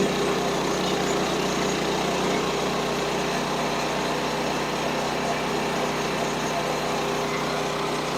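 Small gasoline engine of a portable band sawmill running steadily at an even speed.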